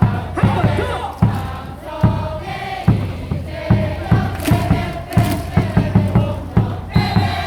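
A baseball crowd singing a cheer song in unison, unaccompanied by the stadium speakers, with a repeated beat keeping time.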